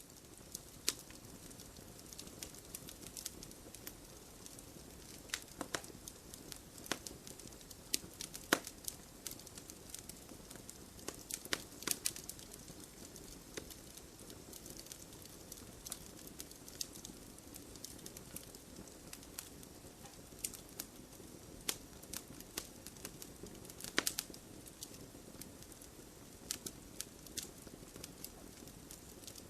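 Wood campfire burning: a steady soft hiss of flames with frequent sharp crackles and snaps, and a handful of louder pops scattered irregularly through.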